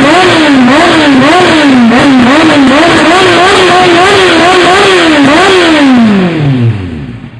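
Kawasaki ZX-9R Ninja's inline-four engine revved again and again through its exhaust, the pitch climbing and dropping about every half to three-quarters of a second. Near the end the revs fall away in one long slide, and the engine settles back quieter.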